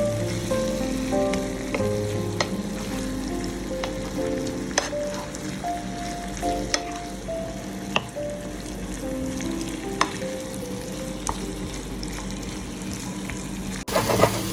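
Chicken in a thick honey sauce sizzling in a frying pan while being stirred, a utensil clicking against the pan every second or two. Background music with a simple melody plays underneath.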